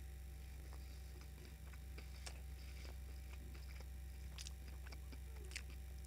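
Faint mouth sounds of a person chewing a mouthful of crispy breaded chicken burger: scattered soft clicks and smacks over a steady low hum.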